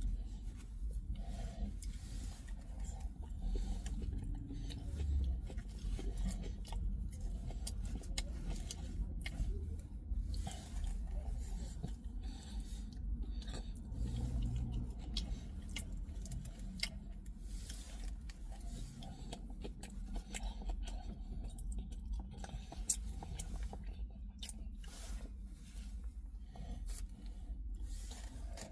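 Close-up chewing of a döner kebab, with many small clicks and scrapes over a low steady rumble.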